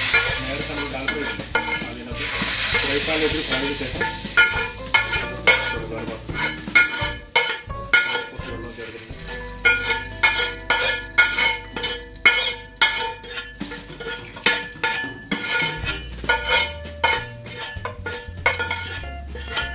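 Food sizzling loudly in a hot stainless steel pot on a gas stove. After about four seconds the sizzle gives way to background music with plucked guitar notes over a steady bass.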